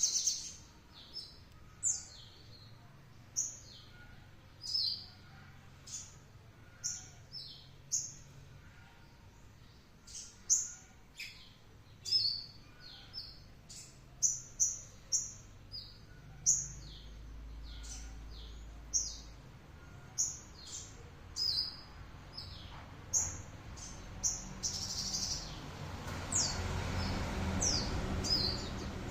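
Sogon songbird giving its 'tembakan' calls: short, sharp, high notes that drop in pitch, repeated about once a second and sometimes in quick pairs. A low rushing noise swells near the end.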